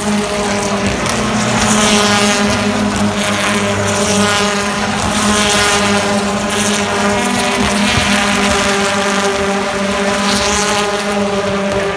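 A pack of British Touring Car Championship cars racing past. Their turbocharged two-litre engines keep up a steady drone, with several louder swells as individual cars go by.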